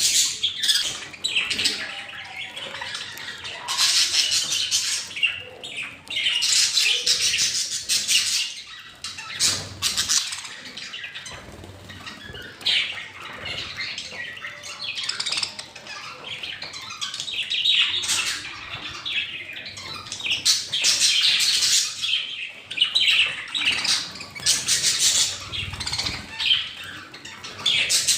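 A flock of birds squawking and chirping in repeated bursts, with some wing flapping.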